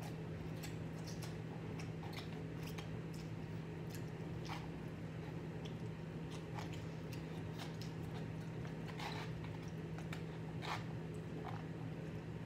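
Close-up chewing of instant noodles eaten from a cup: irregular wet mouth smacks and clicks. A steady low hum runs underneath.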